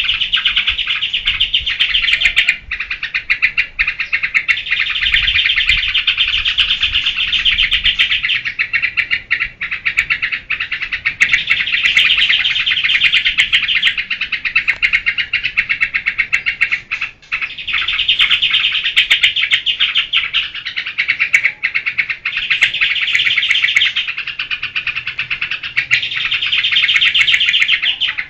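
Trucukan (yellow-vented bulbul) in 'geberan' song: a loud, fast, unbroken chatter of notes that swells in stretches of a few seconds with short dips between them.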